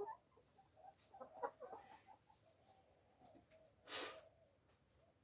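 Backyard chickens clucking softly while they feed, a scatter of short, faint notes, with one brief rustling burst about four seconds in.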